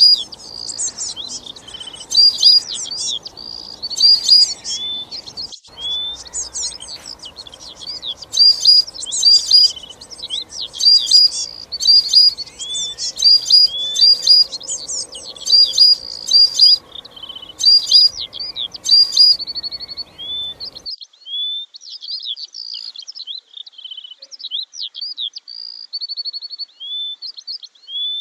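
Birds chirping and twittering, with quick high calls and short trills one after another throughout. A faint background hum stops abruptly about 21 seconds in, and the chirping continues.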